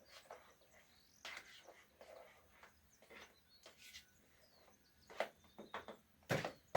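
Faint birds chirping in the background, broken by a few sharp knocks of handled objects, the loudest near the end.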